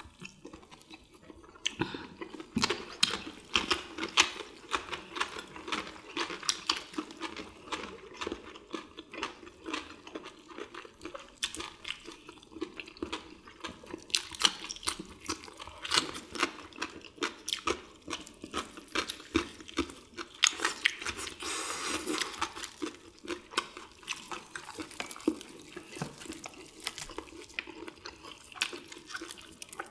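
Close-up eating sounds of fried chicken: wet chewing and lip-smacking with quick clicks and crisp crunches of the fried coating, several a second.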